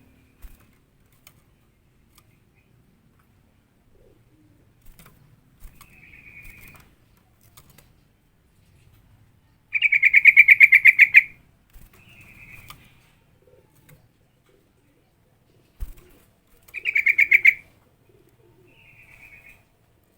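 Sooty-headed bulbul (trucukan) calling: two loud bursts of rapid chattering notes, each a second or so long, near the middle and about three quarters of the way through, with softer short phrases between them.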